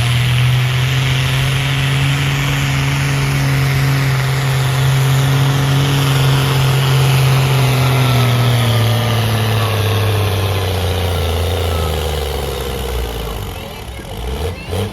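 Pulling tractor's engine running hard under load with a steady low tone, its pitch sinking and the sound fading over the last few seconds.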